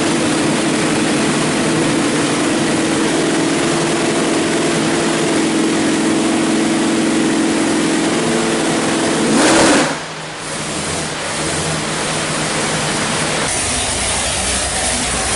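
489 cubic-inch big-block Chevrolet stroker V8 running steadily on an engine dyno. About nine and a half seconds in it revs up sharply in a short loud burst, then the throttle closes and it drops back to a lower, rougher running.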